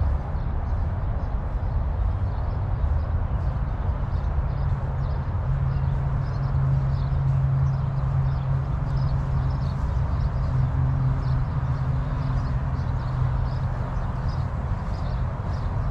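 Water falling steadily into a pool, a dense continuous splashing with scattered small drips and splashes on top. A low steady hum comes in about five seconds in and fades out a few seconds later.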